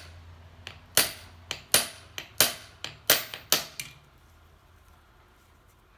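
Hammer tapping on metal engine parts: about nine sharp, ringing strikes in the first four seconds, then it stops.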